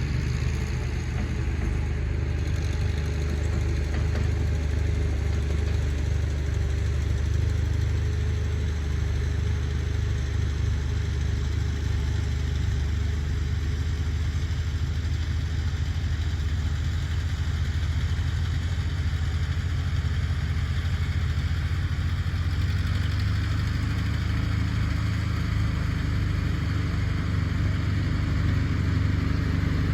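Tractor engine running steadily at an even speed, a constant low drone with no change in pitch.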